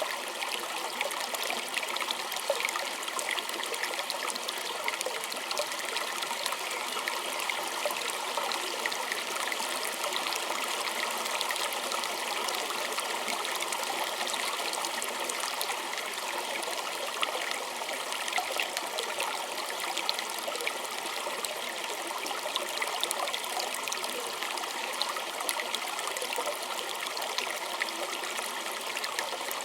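Small stream trickling and babbling: a steady rush of water with many small splashes and drips.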